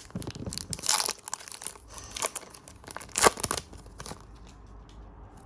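A trading-card pack's plastic wrapper being torn open and crinkled, with loud crackling rips about a second in and again past three seconds, then quieter handling.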